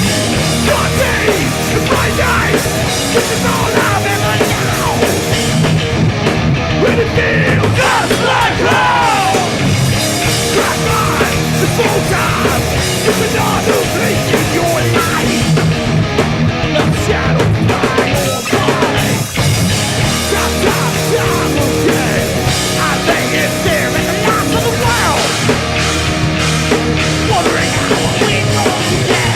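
Hardcore punk band playing live with distorted electric guitars, bass and drum kit, and no singing. A lead guitar solo of bending, sliding notes sits above the rhythm section, most plainly in the first ten seconds.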